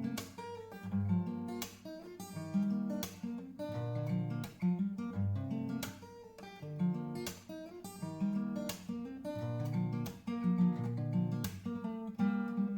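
Solo acoustic guitar music, plucked and strummed notes in a steady flowing pattern.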